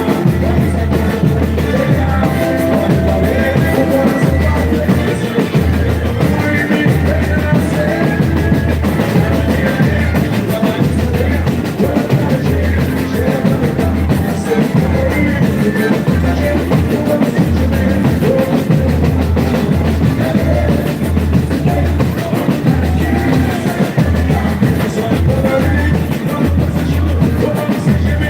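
Live boi-bumbá toada played loud, with a heavy, steady drum beat and voices singing over it.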